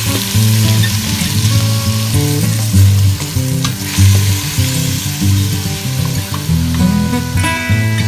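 Food sizzling steadily as it fries in a pan, with a few light clicks from a utensil, under background music.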